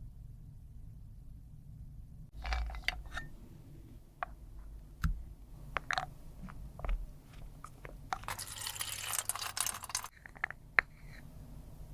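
Makeup products and their cases handled close to the microphone: a string of small clicks and taps, then about two seconds of crunching and scraping, and a few last clicks.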